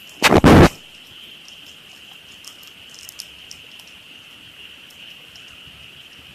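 A steady high-pitched chorus of frogs, with faint scattered crackles from a campfire. About a quarter second in, a loud, short burst of noise cuts across it for under half a second.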